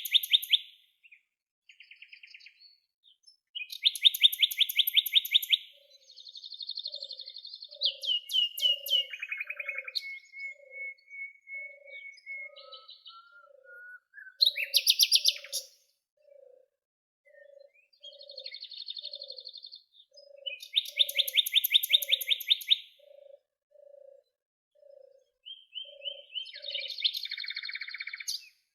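Several songbirds singing, with fast trilled phrases repeating every few seconds and a separate low, short note repeated about twice a second through most of the stretch.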